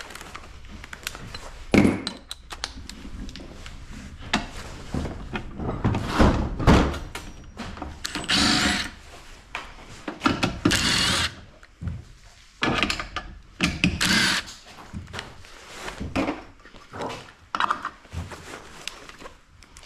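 Tools and hardware being handled during garage door opener powerhead work: irregular knocks and clunks, with two longer rattling bursts of about a second each near the middle.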